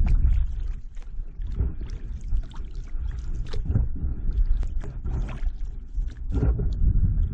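Kayak paddle strokes dipping and splashing in the water, about one every second, over a constant low rumble of wind on the microphone.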